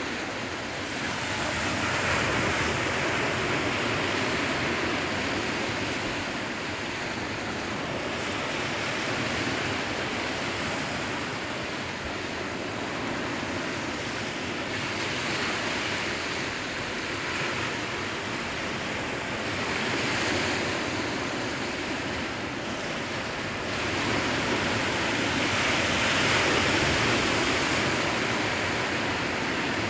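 Sea waves breaking and washing in a continuous surf, swelling louder every several seconds and loudest near the end.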